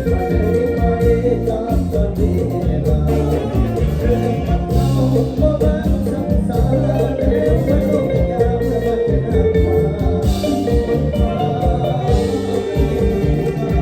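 Live band playing up-tempo Isan mor lam music in the toei style, with a dense, steady beat.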